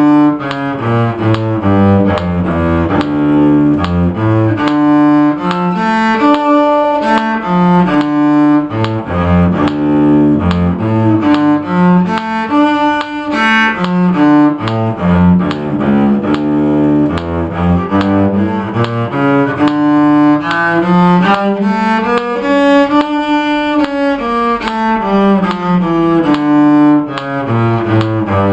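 Low bowed string instrument playing the D harmonic minor scale over two octaves. The notes change in even steps at a brisk pace, climbing and falling in long runs.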